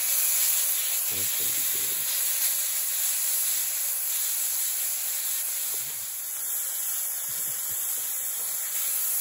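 Shredded hash browns sizzling in bacon fat on a camp-stove griddle: a steady hiss.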